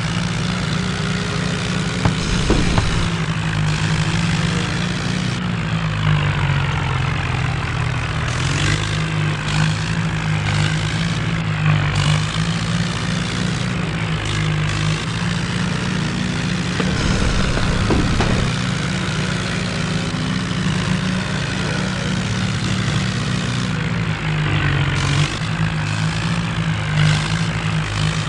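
John Deere tractor's diesel engine running steadily, with a heavy low drone throughout.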